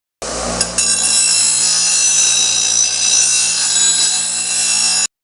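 Power cutting tool running against steel EMT conduit with a loud, steady, high-pitched metallic screech over a motor hum. It starts and stops abruptly.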